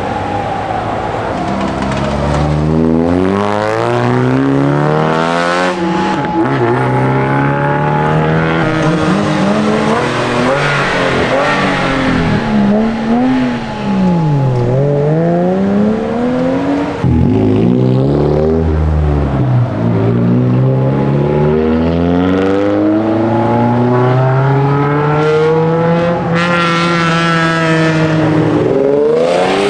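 Several modified cars' engines revving and accelerating past one after another. Their exhaust notes overlap, rising and falling in pitch.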